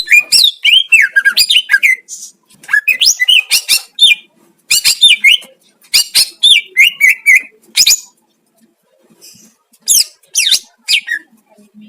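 Green leafbird (cucak ijo) singing loudly in quick phrases of varied sweeping whistles and chattering notes, pausing for about two seconds before a last phrase.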